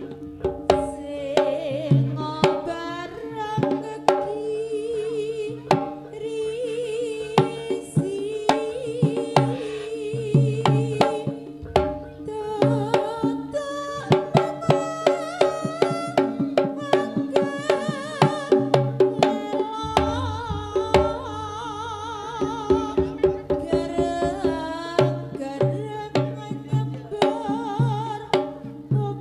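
Live Javanese traditional dance music: hand drums beating a brisk, steady rhythm under a wavering, reedy melody line and held sustained tones.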